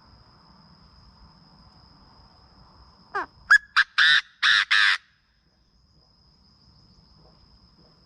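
Chinese francolin call: a loud phrase of about two seconds, beginning with a quick sweep and two sharp notes and ending in three longer harsh notes, which cuts off suddenly. Underneath is a steady chorus of crickets with a thin high insect whine.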